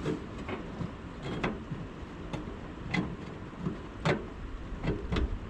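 Scattered clicks and knocks of bolts, nuts and tools being worked while fastening a conveyor feed flap, at uneven intervals over a steady low rumble.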